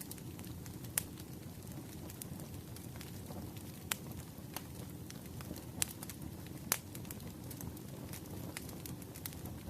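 Wood fire burning: a low steady rumble with sharp crackles and pops at irregular intervals, a few louder snaps among them.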